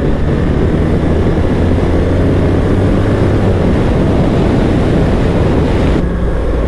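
BMW R 1300 GS boxer-twin engine running steadily at road speed under a rushing haze of wind noise. The upper part of the rush drops away suddenly about six seconds in.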